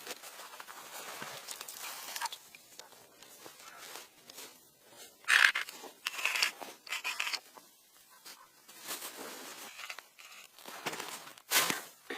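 Intermittent rustling and crunching in short separate bursts, the loudest about five seconds in and another shortly before the end.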